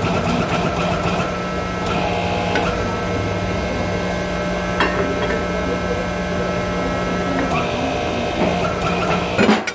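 Steady mechanical hum of running workshop machinery, with a few short metallic knocks and clinks, ending abruptly just at the close.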